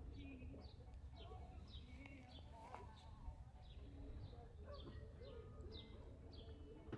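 A small bird chirping over and over, short falling chirps about twice a second, faint over a steady low rumble.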